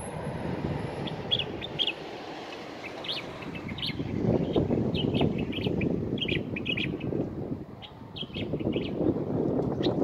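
Small songbird chirping in quick, short repeated notes, with the low rumble of wind buffeting the microphone underneath.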